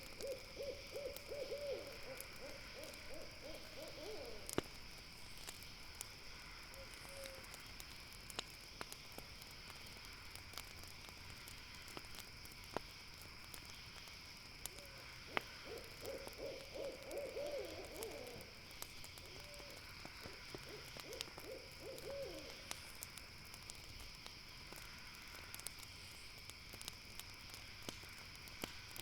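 An owl calling in quavering trills of rapid notes, once near the start and twice more in the second half. Behind it runs a steady high-pitched drone, broken by sharp, scattered clicks of a crackling campfire.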